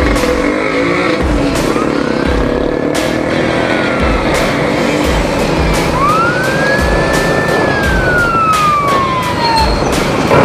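Motorcycle riding noise with wind on the helmet microphone, under background music with a steady beat; a slow wailing tone rises and falls twice through it.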